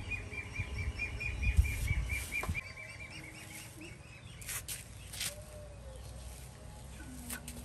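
A bird's rapid, evenly repeated high chirps over a low rumble, stopping about two and a half seconds in; then a few brief scratchy noises.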